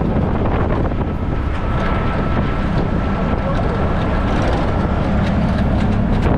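Steady noise of a moving vehicle, with a low rumble and wind buffeting the microphone.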